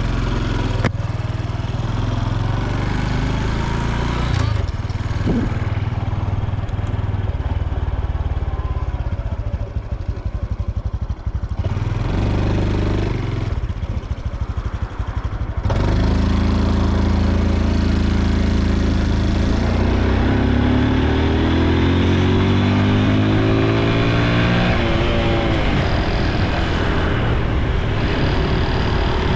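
Honda Super Cub C125's single-cylinder engine and exhaust running under way. It eases off in the middle, then pulls away again, its pitch rising through the gears.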